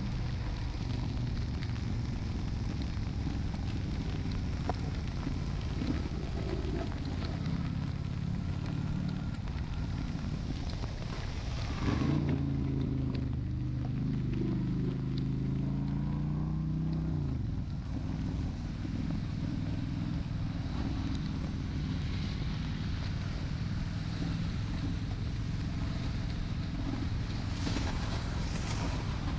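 Honda Shadow 750 V-twin engine running under way, with wind buffeting the microphone. About twelve seconds in, the engine note grows louder and shifts in pitch for about five seconds, then settles back.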